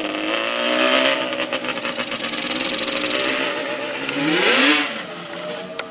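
Yamaha Banshee 350's two-stroke twin engine running just after starting, revved up once about four seconds in and dropping back.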